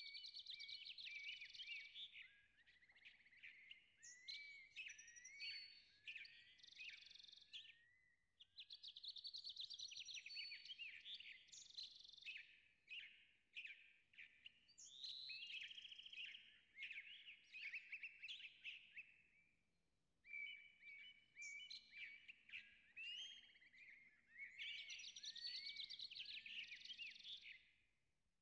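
Faint songbird singing: long, varied phrases of quick whistles and trills, each lasting several seconds, with short pauses between them.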